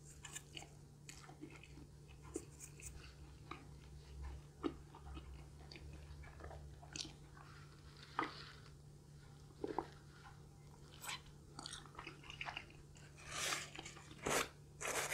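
Close-miked mouth sounds of a person chewing and swallowing food in small, irregular clicks, with a sip from a cup about eight seconds in. Near the end comes a short rustle and scrape as a pizza slice is picked up from its cardboard box.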